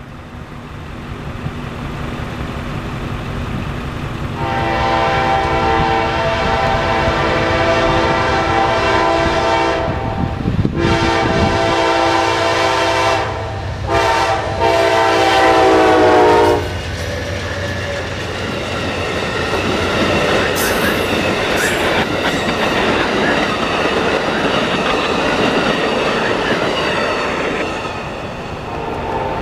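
Locomotive air horn sounding a chord in the long, long, short, long grade-crossing pattern as a train approaches the crossing. The train then passes with a steady rumble of wheels on rail.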